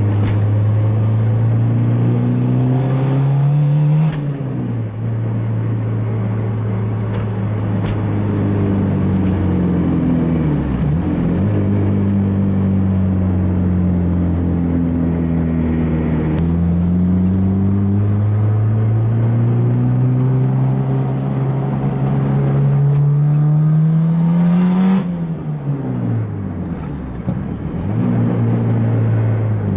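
Turbocharged Nissan SR20DE+T engine of a B13 Sentra driving under load. Its revs climb and drop sharply about four seconds in, as at a gear change, then hold steady. Near the end the revs make a long climb that falls away sharply about 25 seconds in.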